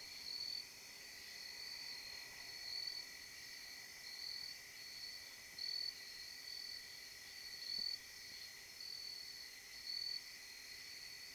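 Night insects chirping in a steady chorus: crickets give short high pulses again and again, over a constant lower trill.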